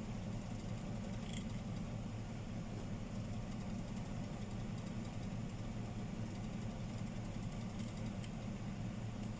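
A steady low mechanical hum, like a motor running, with a few faint clicks about a second in and near the end.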